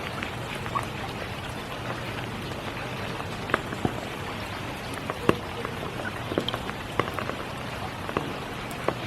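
Steady spring rain, with scattered louder drops striking close by at irregular moments.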